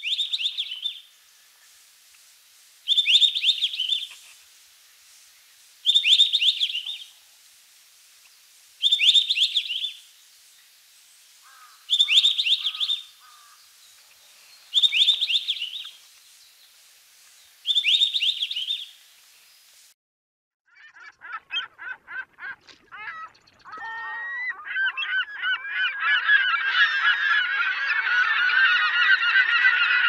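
European robin song: the same short, high phrase repeated seven times, about three seconds apart. After about twenty seconds it stops, and herring gulls start calling, building within a few seconds into a loud chorus of many gulls calling over one another.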